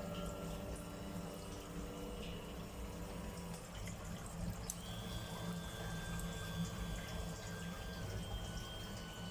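Water running and bubbling over a low steady rumble, with a faint thin whine joining about five seconds in.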